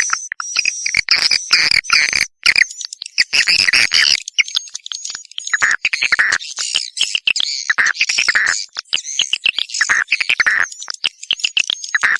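Swiftlets calling: a dense chorus of rapid chittering, clicking trills and high chirps, overlapping almost without pause, with brief gaps. It is a 'walet panggil' lure recording, the kind played to draw swiftlets into nesting houses.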